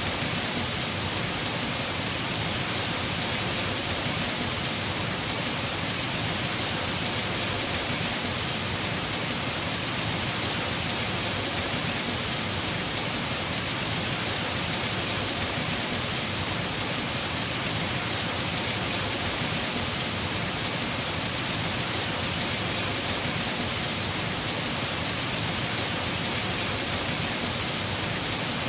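Heavy rain falling steadily on a house roof, a dense even hiss of countless drops with no let-up.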